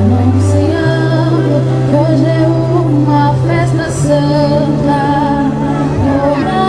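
Music: a song sung by a woman's voice over steady, held low bass notes that shift pitch every few seconds.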